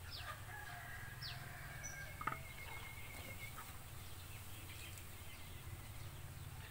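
Faint bird calls: a few short downward-sweeping chirps in the first second and a half and a thin held whistle, with one light knock a little over two seconds in, over a steady low hum.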